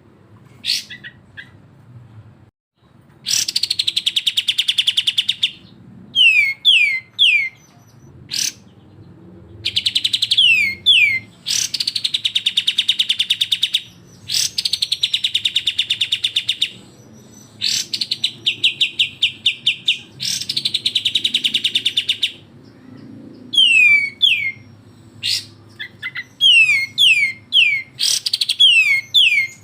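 Recorded song of kapas tembak and cucak jenggot birds in the fast, harsh besetan style. Rattling trills of rapidly repeated notes, each lasting one to two seconds, alternate with quick runs of three or four falling whistles.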